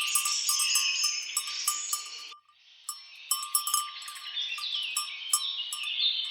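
Birds singing and chirping all together, mixed with a tinkling of small bells. The sound drops out for about half a second partway through.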